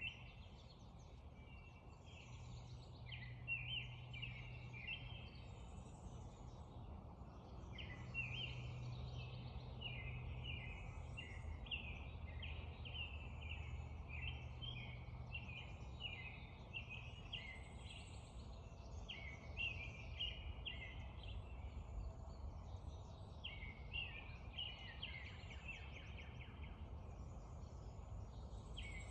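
Several songbirds singing together in a morning chorus, with quick repeated phrases overlapping all through, over a steady background rush. A low hum comes in about two seconds in and fades out about halfway through.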